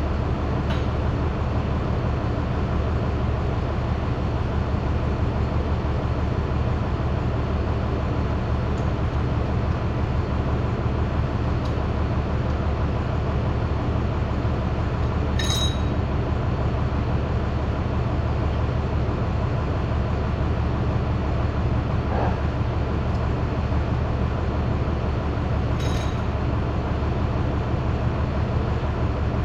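Steady low mechanical hum, unchanging throughout, with two light metallic clinks, one about halfway through and one near the end.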